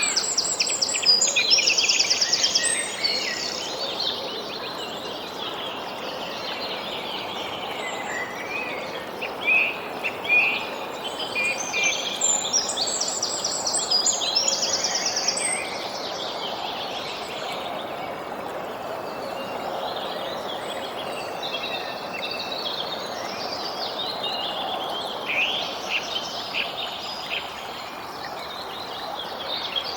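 Songbirds chirping and singing over a steady background hiss. A song phrase ending in a fast trill comes near the start and again about twelve seconds later, with scattered shorter chirps throughout.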